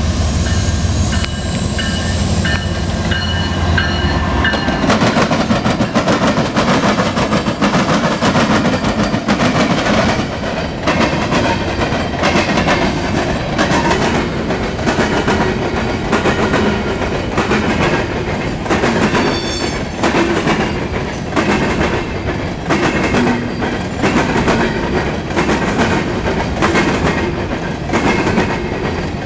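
Norfolk Southern diesel freight locomotives rumbling past for the first few seconds. Then a string of covered hopper cars rolls by, a steady rumble with the wheels clicking over the rail joints.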